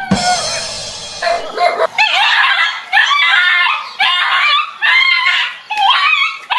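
A harsh, noisy sound for about the first second and a half, then a dog barking and yelping over and over in short, high calls that bend in pitch.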